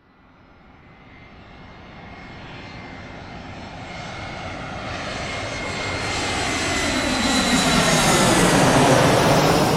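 Airplane flying in and passing close, its engine sound rising steadily from faint to loud and peaking near the end, with a shifting whoosh as it comes overhead.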